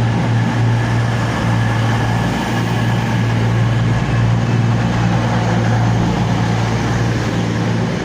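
Diesel engines of a Class 221 Voyager multiple unit idling at the platform: a loud, steady low hum.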